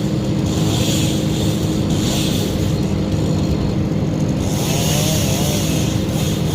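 An engine running steadily at constant speed, with a drone that does not rise or fall.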